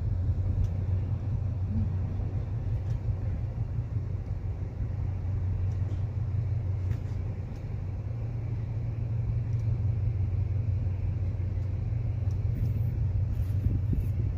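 Steady low rumble of a passenger train coach running on the rails at about 60 km/h, heard from inside the coach, with a few faint ticks.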